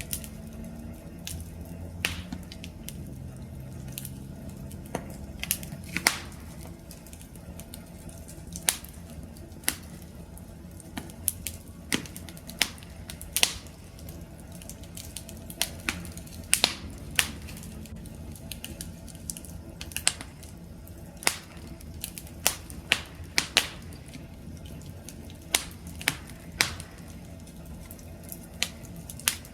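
Wood fire burning: a steady low rumble of flames with irregular sharp crackles and pops from the burning wood.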